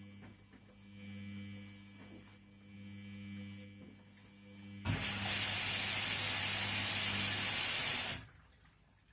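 Washing machine taking in water. A steady electrical hum with faint water sounds, then about five seconds in a loud rush of spraying water for about three seconds that cuts off, as the fill water jets into the machine.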